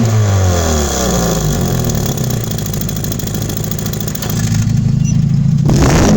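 Mazda 6 engine and exhaust with an electronic cutout valve: revs falling back after a blip, running steady, then getting louder with a fresh rev near the end.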